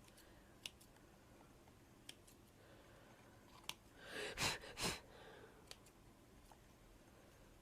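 Small craft scissors snipping stray bits, heard as a few sharp, widely spaced clicks. Two short, soft swishing sounds come a little past the middle, louder than the snips.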